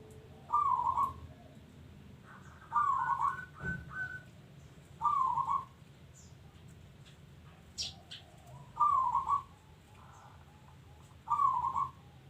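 Zebra dove (perkutut) cooing: five short trilled coo phrases, one every two to three seconds. A brief high chirp cuts in about eight seconds in.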